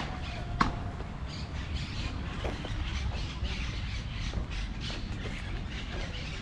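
Birds chirping and squawking in short, repeated calls over a low steady outdoor rumble, with one sharp click about half a second in.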